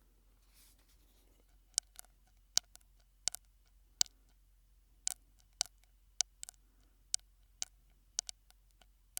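Mouth clicks and pops made through a straw, sharp and short, coming irregularly about twice a second, some in quick pairs.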